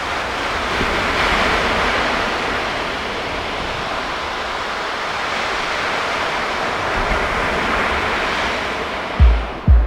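Ocean surf washing onto the beach: a steady rushing hiss that swells and eases. Near the end a music track's deep bass-drum beat comes in, about two thumps a second.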